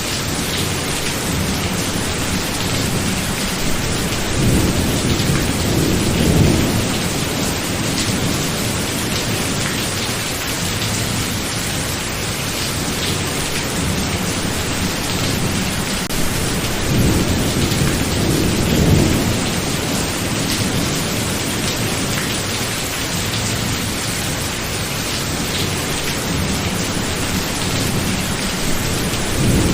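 A thunderstorm: steady, heavy rain hissing throughout, with low rolls of thunder that swell and fade, about five seconds in, again around eighteen seconds, and once more at the end.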